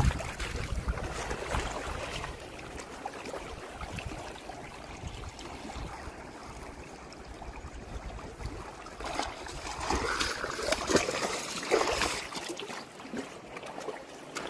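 Rushing river water, a steady noise that grows louder and more uneven for a few seconds near the end.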